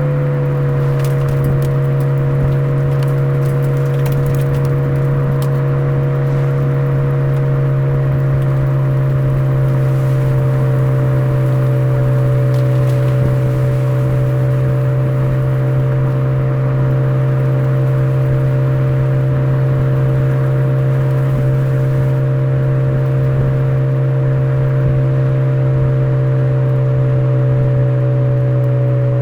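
Suzuki Swift Sport ZC33S's 1.4-litre turbo four-cylinder running through a Fujitsubo aftermarket exhaust, a steady drone held at almost constant engine speed as the car runs downhill. The pitch dips slightly just after the start and then stays level.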